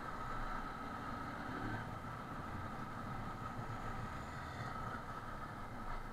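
Motorcycle engine running steadily while riding along a street, mixed with road and wind noise, heard muffled through an action camera.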